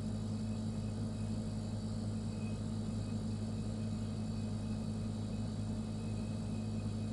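Refrigerator running: a steady low hum with an even, faint hiss above it.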